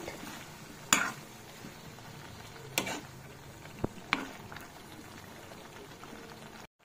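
Chicken and onion paste frying gently in butter and oil in a kadai: a soft steady sizzle, with a few sharp knocks of a spoon against the pan as it is stirred.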